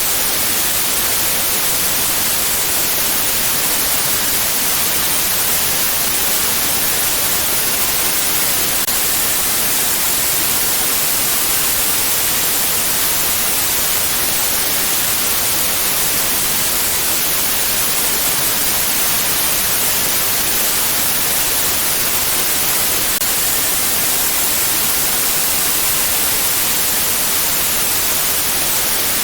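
Steady synthetic white noise: an even, unbroken hiss weighted towards the high end, with no change in level.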